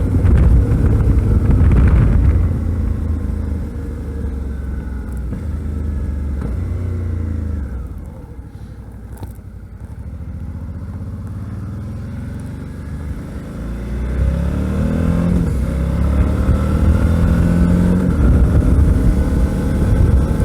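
Suzuki V-Strom 650's V-twin engine heard while riding, with heavy wind rumble on the microphone at first; about a third of the way in the engine slows and the sound drops away, then it accelerates again with the pitch rising through the last third.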